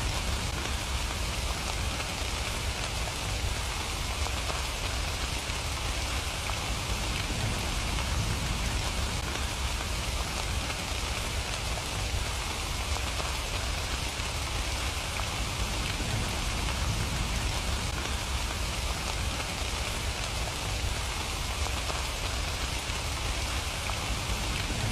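Steady, even rain falling on surfaces, with no breaks or changes.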